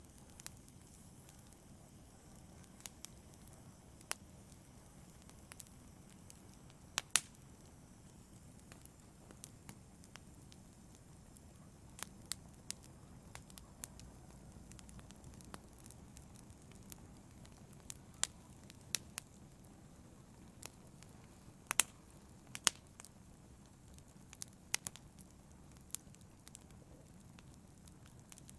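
Wood fire burning in a fireplace: a soft steady rumble of flames with irregular sharp crackles and pops, a few louder snaps around 7 and 22 seconds in.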